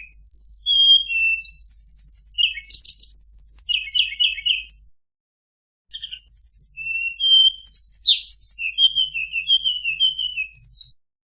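Tledekan (flowerpecker) singing: a fast string of high, thin chirps and short trills, with a pause of about a second midway.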